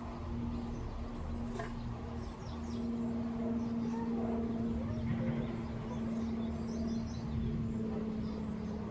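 Faint, scattered bird chirps over a steady low hum and rumble of outdoor background noise.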